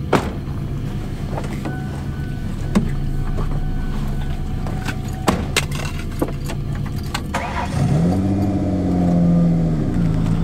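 Car engine running steadily, heard from inside the cabin, with scattered knocks and clicks. About eight seconds in, its pitch rises, holds and falls back.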